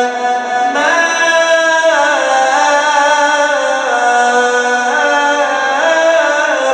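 A man's voice in melodic Quranic recitation (mujawwad tajweed), drawing out a long melisma of held notes, each about a second, that step up and down in pitch with short glides between them.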